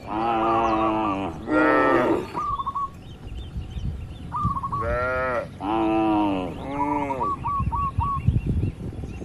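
Cattle mooing: about five drawn-out moos, two pairs in quick succession, at differing pitches.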